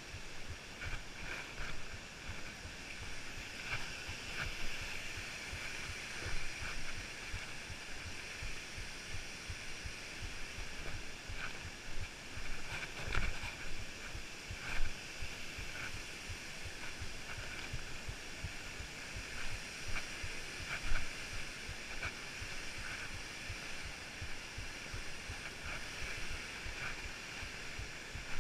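Wind buffeting a small action camera's microphone as it is carried along a hiking trail, over a steady hiss, with scattered short clicks and knocks.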